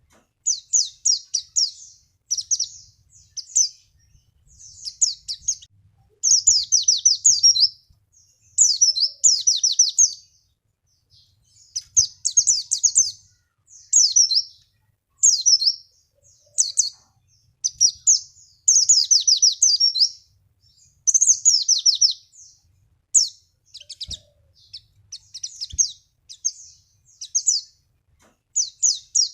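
White-eye (pleci) singing: a fast, high-pitched chattering song in short bursts of rapid chirps and trills, repeated one after another with only brief pauses. It is used as a lure song to get caged white-eyes to answer and sing their full repertoire.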